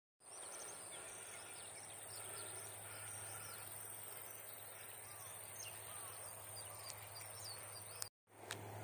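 Many short, scattered bird chirps over a steady background hiss and low hum, with a sharp click and a brief cut-out near the end.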